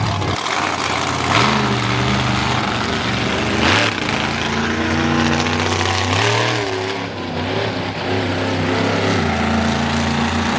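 Monster truck engine running hard and revving, its pitch rising and falling in steps, with two brief loud bursts about a second and a half and about four seconds in.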